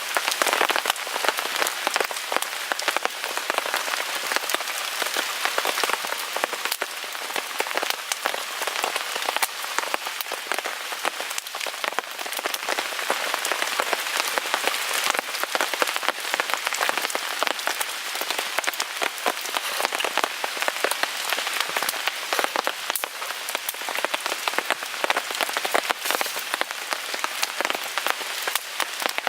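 Steady rain falling on a tarp overhead: a dense, even patter of countless small drop taps, with no letup.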